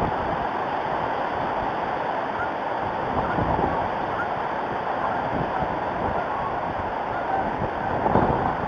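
Strong wind blowing across the outdoor camera's microphone: a steady rushing, swelling in gusts about three seconds in and again near the end.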